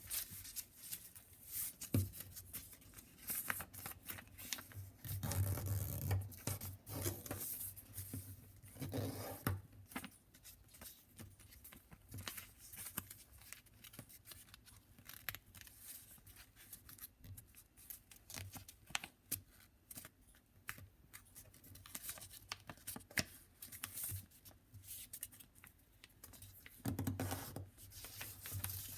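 A sheet of paper being folded and creased by hand: irregular rustling, rubbing and crinkling, busier about five to ten seconds in and again near the end.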